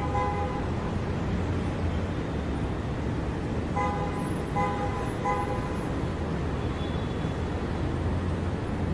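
City street traffic: a steady low rumble of passing vehicles. A car horn honks at the start, then three short honks come in quick succession about four to five and a half seconds in.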